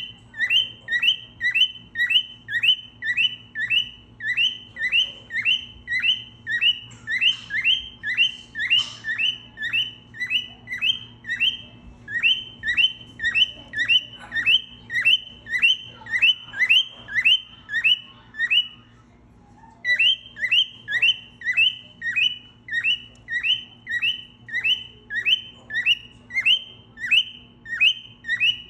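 A short, high whistled note repeated rapidly and very evenly, about two to three times a second, with one brief pause about two-thirds of the way through.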